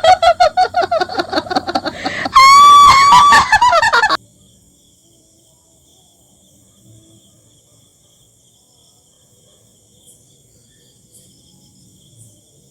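Loud comic ghost sound effect: a rapidly pulsing pitched tone, then a higher, wavering honk-like wail that cuts off suddenly about four seconds in, after which it goes quiet.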